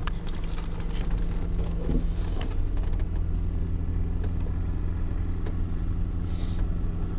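Cessna 150's four-cylinder Continental O-200 engine and propeller running steadily, heard as a continuous low drone inside the cockpit, with a few faint clicks.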